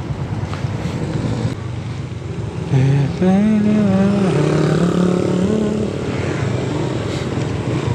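Motorcycle engine running with wind rush while riding. A louder pitched engine note comes in from about three seconds in to about six seconds.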